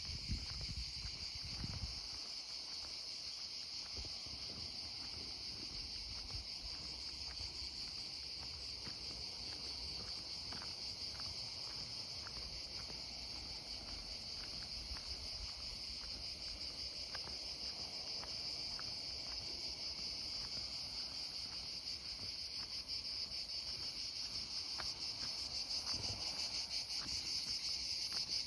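A steady, high-pitched chorus of chirring insects, growing louder in the last few seconds, with a few low thumps in the first two seconds.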